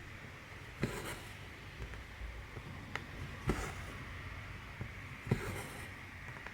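Cross-stitch needle punching through 14-count canvas with a sharp tick, then the brief rasp of thread drawn through the fabric. It repeats every second or two, with the clearest strokes about a second in, midway and near the end.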